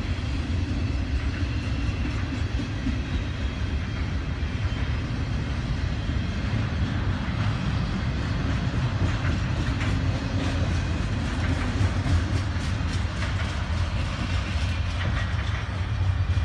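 Freight cars of a long autorack and intermodal train rolling steadily past: a continuous rumble of steel wheels on rail, with scattered clicks and clacks over the joints, more of them in the second half.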